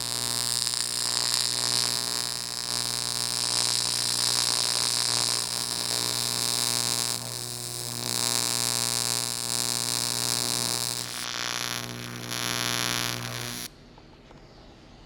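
Welding arc on an aluminium fuel tank: a steady buzzing hiss over a low hum, dipping briefly twice as the weld bead goes on, then cutting off suddenly near the end when the arc stops.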